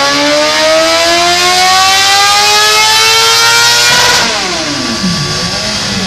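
Racing motorcycle engine at full throttle, its pitch climbing steadily for about four seconds, then falling steeply as it passes by and backs off, settling to a lower steady note near the end.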